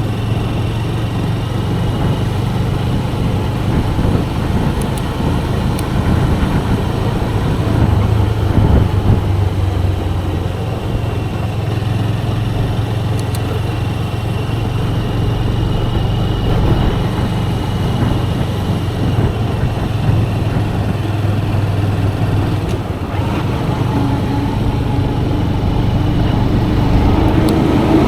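Motorcycle engine running steadily with a low, even drone, without a break.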